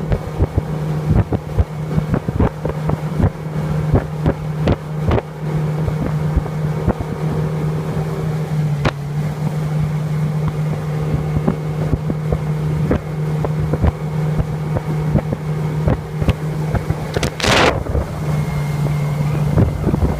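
Motorboat engine running steadily underway, with frequent sharp knocks and thumps and wind on the microphone. A brief loud rushing burst comes near the end.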